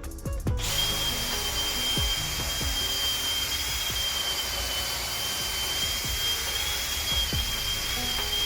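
A small handheld power tool's motor starts up and runs steadily with a high whine, over background music with a regular beat.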